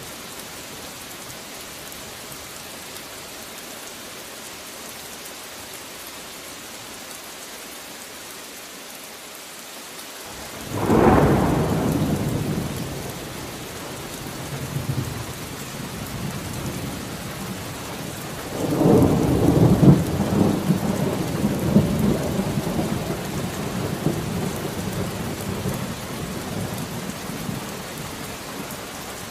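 Steady rain with two peals of thunder: a sudden clap about a third of the way in that rumbles away, then a longer rolling rumble past the middle that slowly fades.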